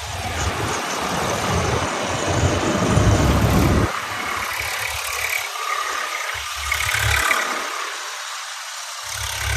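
Tractor engine running, under a continuous noisy hiss.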